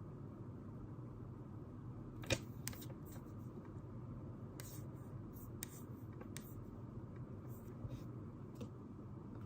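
Steady low room hum with scattered small clicks and taps from someone working at a desk, one sharper click about two seconds in.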